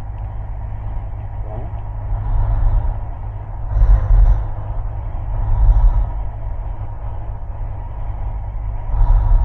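Cessna 172's propeller engine running steadily, heard from inside the cockpit, with several swells of rushing air noise over the drone.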